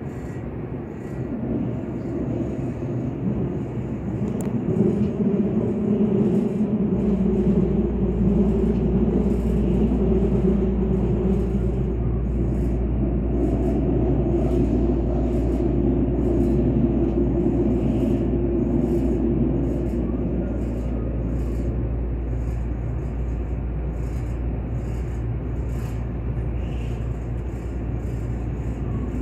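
Kintetsu Ace limited express electric train running, heard from inside the passenger cabin: a steady rumble of wheels and running gear. It grows louder about five to seven seconds in, where a deep steady hum joins and holds.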